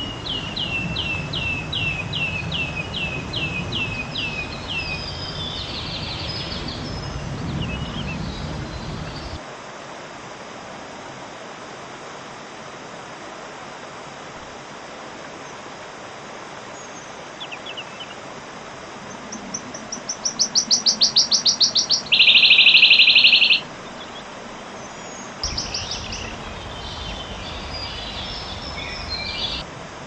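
Wood warbler singing: first a run of about a dozen falling notes, then, about two-thirds through, a series of notes that speeds up into a fast trill, the loudest part. A low rumble of background noise lies under the first third and the last few seconds.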